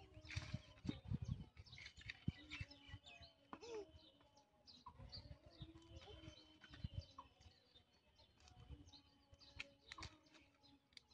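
Faint outdoor birdsong: many short, scattered chirps from small birds. A few low thumps and rumbles come in the first couple of seconds and again past the middle.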